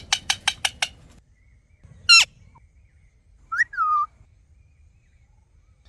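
Parrot calling: a quick run of about six sharp chirps at the start, one loud screech about two seconds in, and a shorter two-note call around three and a half seconds in.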